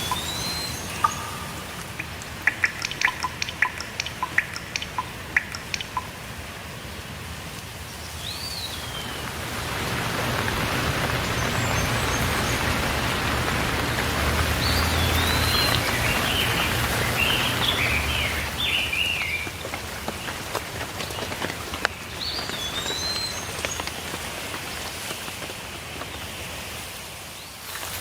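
Rainfall with water drops plinking loudly for the first few seconds, then the rain swelling to a steadier, fuller hiss. Small birds chirp in short calls over it, several together in the middle.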